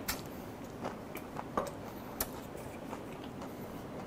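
A person chewing a mouthful of sushi roll with the mouth closed, with scattered short wet clicks and smacks.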